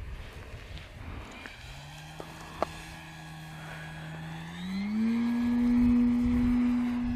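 Electric motor and propeller of an E-flite Carbon-Z Cessna 150 RC model plane droning steadily. About two-thirds of the way through its pitch rises and it grows louder. Wind buffets the microphone at the start, and there is a single sharp click a little before halfway.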